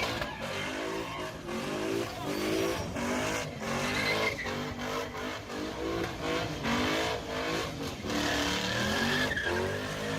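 Car engine revving hard, its pitch climbing and dropping again and again, like a performance car accelerating through its gears.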